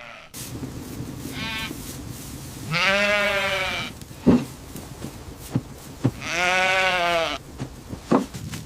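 An animal bleating three times: a short call about a second and a half in, then two longer calls of about a second each, around 3 and 6.5 seconds in. A few sharp clicks fall between the calls.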